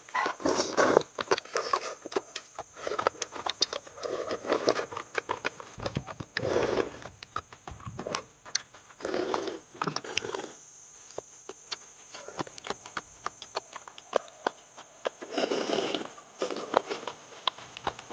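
People eating noisily: chewing, slurping and sniffing, with many small clicks and scrapes of food and utensils.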